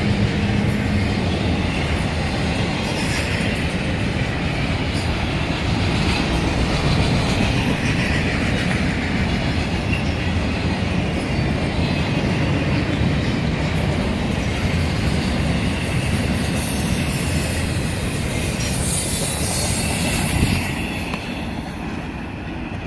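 CSX intermodal freight train rolling slowly past, its wheels clacking over the rail joints with some squealing from the wheels. The sound drops off about twenty seconds in.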